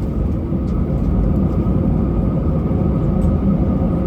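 Airbus A320 cabin noise: a steady engine rumble and hum with a few held tones, heard from inside the passenger cabin, growing a little louder about a second in.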